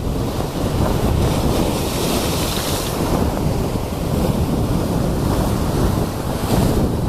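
Sea waves washing onto the shore, with a surge of hissing surf about a second in and another near the end, under a steady low rumble of wind buffeting the microphone.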